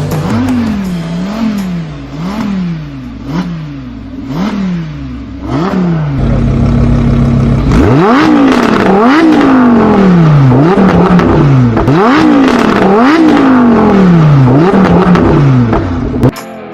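Audi R8's V10 engine through a Capristo aftermarket exhaust, revved in quick repeated blips, each rising sharply and falling back. It is held steady for about two seconds near the middle, then blipped again, louder, until it cuts off near the end.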